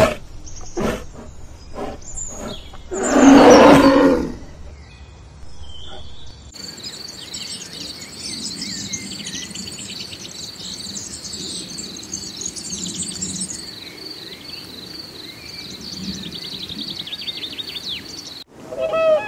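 A bear grunts several times, then gives one loud roar about three seconds in. After a cut, birds chirp and trill over a steady high pulsing tone, which stops abruptly near the end.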